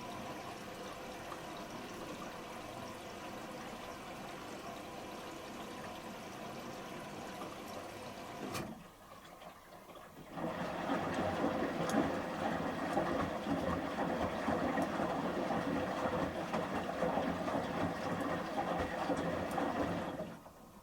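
Samsung Series 5+ washing machine taking in water for its first rinse: a steady rush of incoming water that stops with a click about eight and a half seconds in. After a short pause, a louder rush of water runs for about ten seconds and cuts off near the end.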